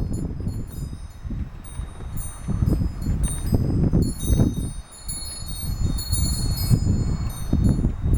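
Strong gusty wind rumbling over the microphone, rising and falling, with a brief lull about five seconds in. Throughout, a wind chime's high metal tones ring and tinkle as the wind knocks it about.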